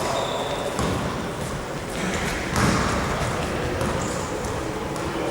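Indoor basketball game sounds echoing in a gym: the ball thudding on the court and sneakers giving brief high squeaks.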